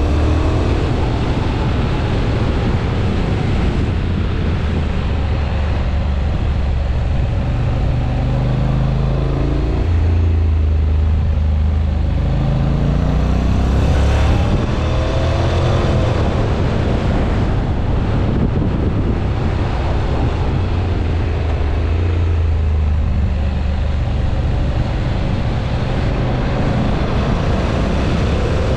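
Honda NC750X's parallel-twin engine on a track lap, revs rising and falling again and again as the bike accelerates and slows for corners, over a steady rush of wind and road noise.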